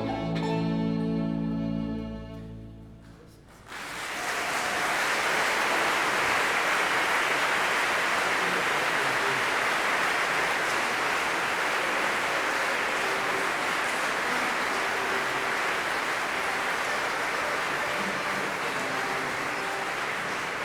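The last held chord of a bluegrass piece with fiddle fades away, then the audience applauds steadily from about four seconds in.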